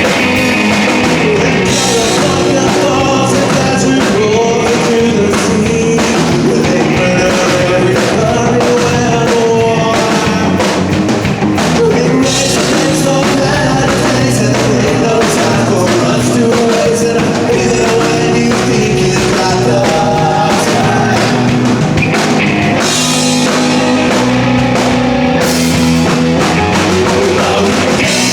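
Rock band playing a song with a singing voice over drum kit and guitars.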